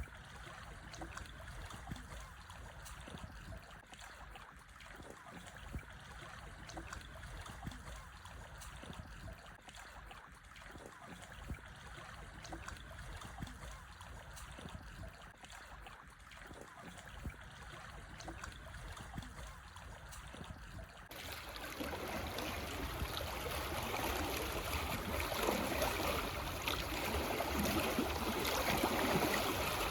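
Small calm waves lapping and trickling over black stones on a shore. About two-thirds of the way through the sound switches abruptly to a louder, brighter wash of water that keeps building toward the end.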